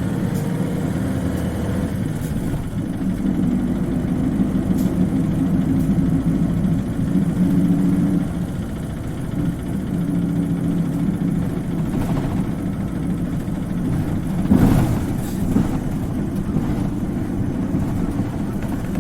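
Isuzu Cubic KC-LV380N city bus diesel engine idling steadily while the bus stands at a stop, heard from inside the cabin. About three-quarters of the way in there is a brief burst of noise.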